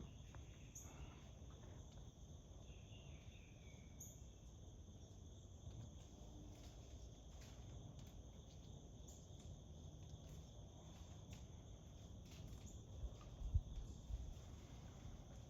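Faint, steady outdoor insect chorus, a continuous high chirring, with a few brief high chirps over it and a couple of low thumps near the end.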